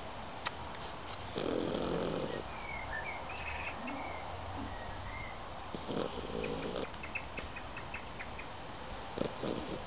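An elderly dog, about 17 years old, snoring in its sleep: two long snores about four seconds apart, then a shorter, broken one near the end.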